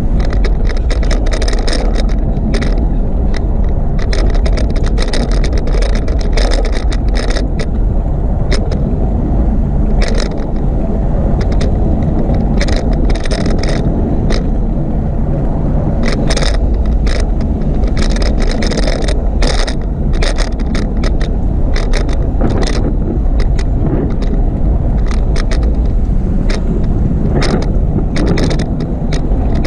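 Bicycle being ridden along a paved path: a steady low rush of wind and rolling noise with frequent short rattles and clicks.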